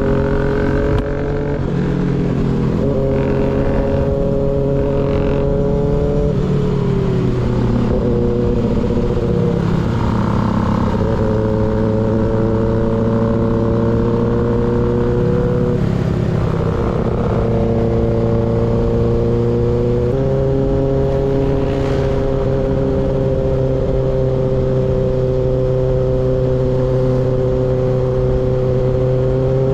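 Kawasaki ZX6R's inline-four engine through an unbaffled M4 GP19 slip-on exhaust, running on the move at a fairly steady pitch. The pitch steps down and back up several times, around 6, 16 and 20 seconds in.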